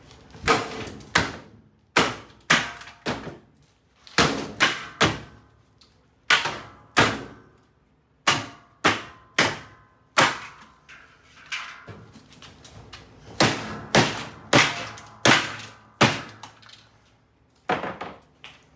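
Repeated hard blows of a hand-swung tool smashing an old top-load washing machine, about twenty impacts in quick runs of two to four, each ringing briefly.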